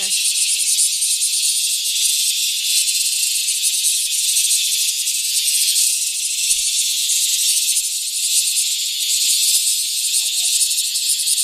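Cicadas buzzing in a loud, steady, unbroken chorus.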